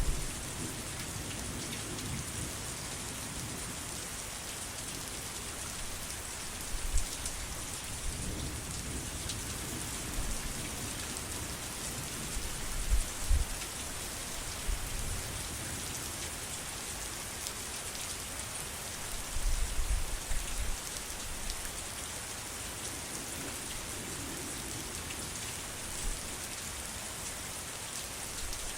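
Steady heavy rain pouring down. A few brief low rumbles of thunder come through it, the longest about two-thirds of the way in.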